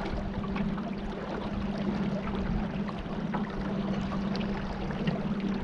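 A small boat's motor running with a steady hum, over the constant wash of water along the hull as the boat moves.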